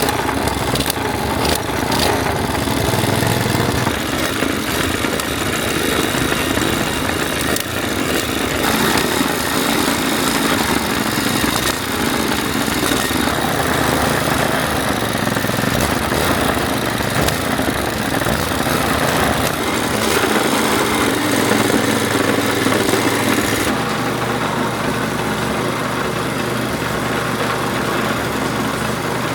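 Rebuilt Kawama 5.5 hp small gasoline engine running steadily on its test run; a little over three-quarters of the way through, its sound turns lower and slightly softer.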